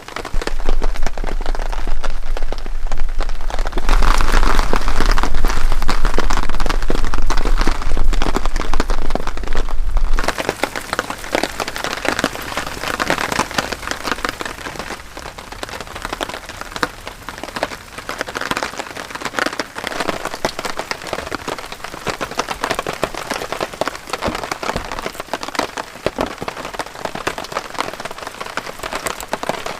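Heavy rain falling, a dense steady crackle of drops, loudest for roughly the first ten seconds with a low rumble under it, then easing to a quieter, even patter.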